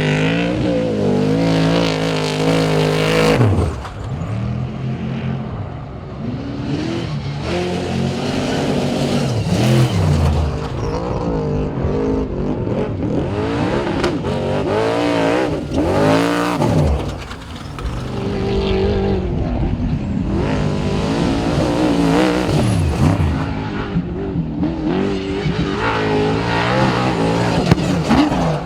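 Off-road trophy trucks' V8 engines revving hard, their pitch climbing and dropping again and again as trucks pass one after another, with short drops in loudness a few seconds in and about halfway through.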